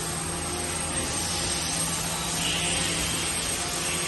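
Steady factory-floor background noise: an even hiss with a low, steady hum underneath.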